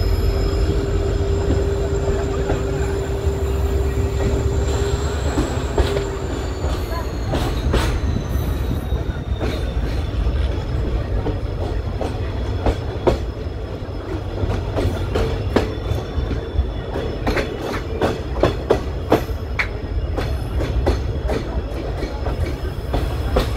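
Passenger train running, heard from an open coach doorway: a heavy low rumble with sharp wheel clicks over rail joints that come thicker in the second half. A steady hum in the first few seconds dips in pitch and fades about six seconds in.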